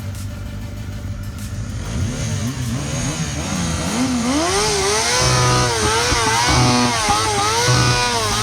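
Motorcycle engine running steadily, then revved repeatedly from about four seconds in, its pitch climbing and dropping with each blip of the throttle.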